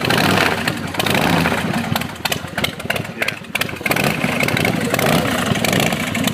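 2008 Big Dog K9's carbureted 117 cubic inch V-twin running through big Vance & Hines exhaust pipes just after a warm start, its level rising and falling unevenly.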